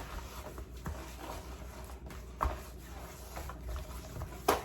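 Hands rubbing a dry seasoning mix into raw pork back ribs, a faint, soft rubbing with a few light knocks against the tray, the sharpest near the end.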